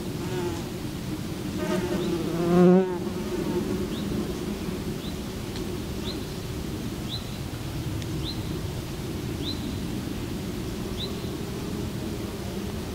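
Insects buzzing close to the microphone, with one flying right past, loud and wavering, about two and a half seconds in. A short high chirp repeats about once a second through the middle.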